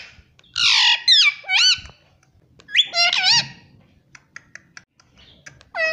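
Pet parrot giving shrill calls that swoop up and down in pitch, in two bursts, followed by a few soft clicks.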